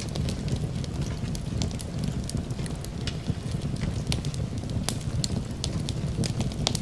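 Fireplace fire crackling, with irregular sharp pops over a steady low rumble, and gentle rain behind it.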